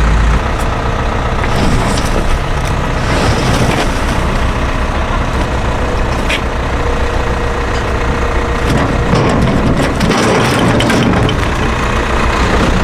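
Heavy vehicle engine running steadily, with scattered knocks and cracks as logs are unloaded from a trailer.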